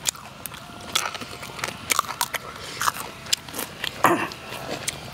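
Close-up crunching and chewing of raw fresh vegetables and greens, many crisp bites in an uneven run. A short vocal sound about four seconds in.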